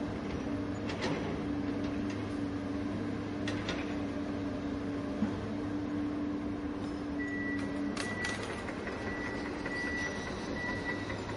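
Remote-control toy excavator running its motors with a steady whirring hum as it drives over dirt, with a few sharp clicks. From about seven seconds in, a high beep repeats in short pulses.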